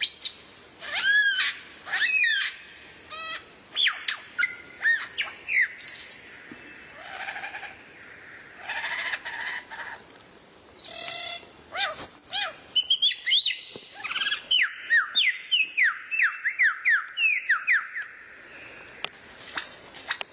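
Songbird singing a varied song of whistled notes and chirps, then in the second half a fast run of about a dozen downward-sweeping whistles.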